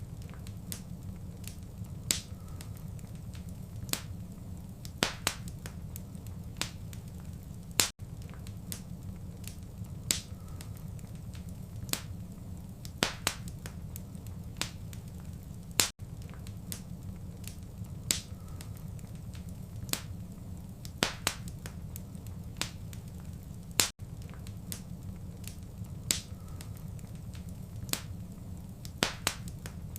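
Wood fire crackling in a fireplace: irregular sharp pops and snaps over a steady low rumble. It is a short loop that repeats about every eight seconds, with a brief gap at each join.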